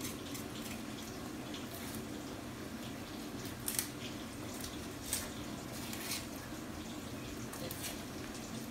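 Plantains frying in oil, a steady sizzle, with a few light clicks of a kitchen knife against an onion as it is peeled.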